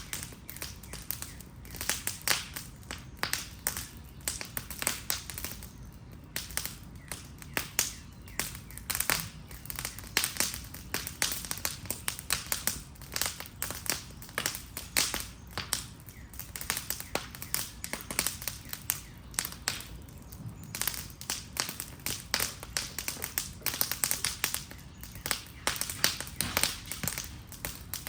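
Fire burning an Adirondack chair, crackling and popping steadily with many quick, irregular snaps over a low rumble.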